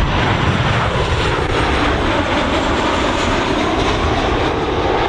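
Jet airliner's engines running loud and steady at close range, a deep rumble with a broad rushing roar above it.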